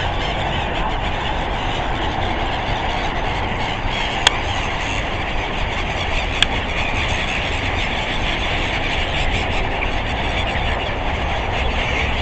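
Steady rumble and hiss of road traffic, with two sharp clicks about four and six seconds in.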